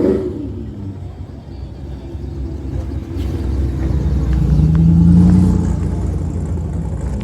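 Car engine running nearby, growing louder to a peak about five seconds in, then easing off.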